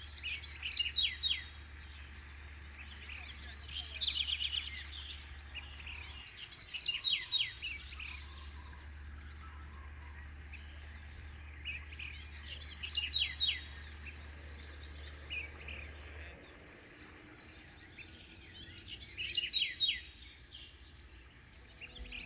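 Several birds calling, in repeated clusters of quick chirps and short whistled notes. Underneath runs a low steady hum that breaks off briefly and stops about three-quarters of the way through.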